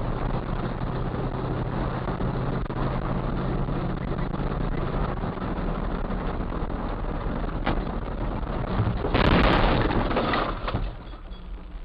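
A moving car's engine and road noise picked up by a dashcam, with a steady low engine hum in the first half. About nine seconds in, a louder rushing noise with a few sharp knocks lasts under two seconds, then the sound drops back to quieter road noise.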